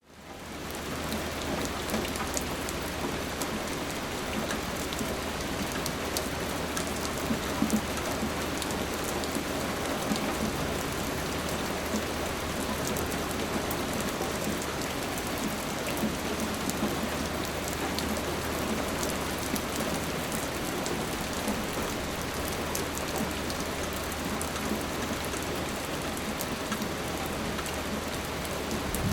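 Steady rain falling, with many individual drops ticking on a hard surface. It fades in over the first second, then holds even.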